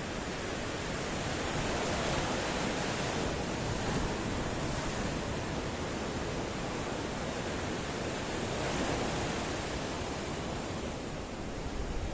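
Ocean surf: a continuous wash of waves, swelling louder about two seconds in and again near nine seconds.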